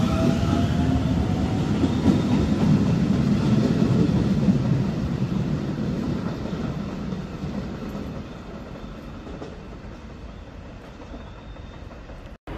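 Keio Sagamihara Line electric train moving through the station: a rising motor whine at the start as it picks up speed, then a low rumble of wheels on rail that fades over several seconds as it draws away. The sound cuts off abruptly near the end.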